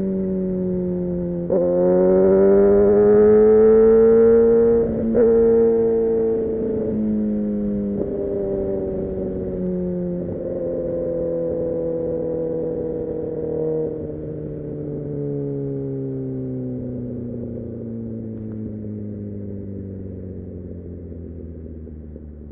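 Kawasaki Ninja ZX-6R inline-four engine pulling higher as the throttle opens about a second and a half in, with a brief break near five seconds. It then falls slowly in pitch as the bike decelerates, growing quieter near the end.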